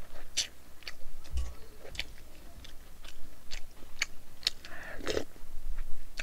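A person chewing a mouthful of spicy noodles close to a microphone, with wet smacking mouth clicks every second or so and a brief vocal sound about five seconds in.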